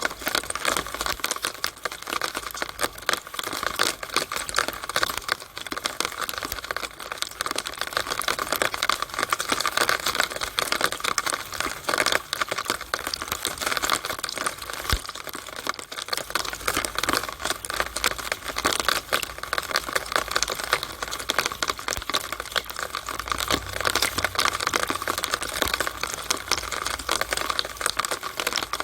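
Rainwater running and dripping inside a downspout in the rain: a steady, dense crackle of many small splashes and taps.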